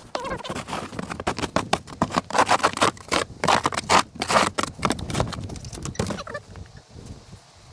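Snow shovel scraping and crunching through deep snow, a rapid string of scrapes that is loudest in the middle and eases off after about six seconds.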